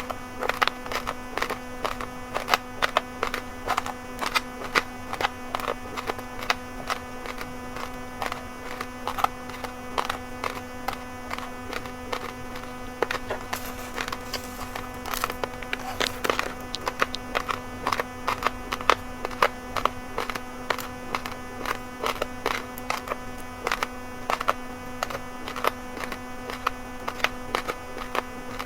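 Raw uncooked rice grains, red and white mixed, crunched between the teeth close to the microphone: a constant run of sharp, irregular cracks. A steady buzzing hum runs underneath.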